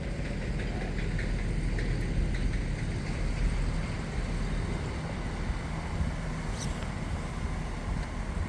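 Steady low rumble of diesel trains in the station, a faint engine tone rising out of it around the middle.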